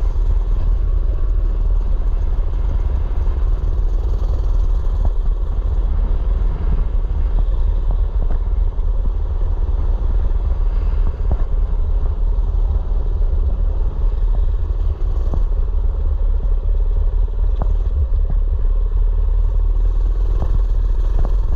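Mini bike engine running steadily while riding, over a constant low rumble, with scattered clattering knocks.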